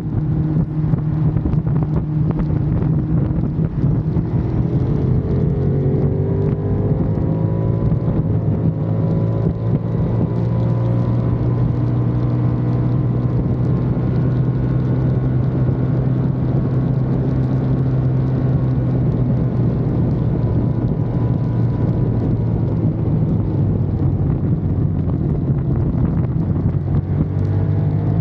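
Ducati Monster's L-twin engine running while riding, its note rising as it accelerates a few seconds in, then holding steady while cruising, and rising again near the end, with wind buffeting the microphone.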